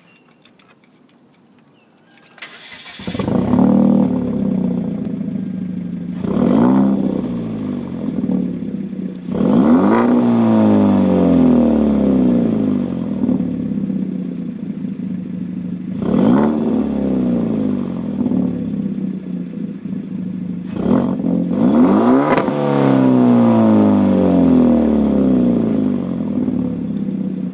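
Hyundai Genesis Coupe 2.0T's turbocharged four-cylinder, breathing through a Magnaflow cat-back exhaust with Weir Tech downpipe and mid pipe, starting up about two and a half seconds in and then idling. It is revved several times, each rev rising sharply and falling back to idle.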